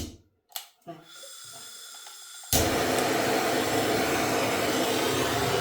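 A couple of short clicks, then about two and a half seconds in a butane torch lights with a sudden, loud, steady hiss, its flame heating a copper pipe joint to melt the solder.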